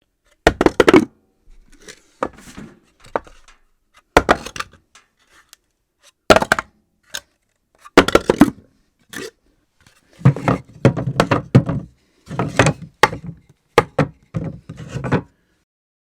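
Objects dropped onto a floor one after another, each landing as a sharp knock with quick bounces and clatter, at irregular intervals. The busiest run of impacts comes in the last third, between about 10 and 15 seconds.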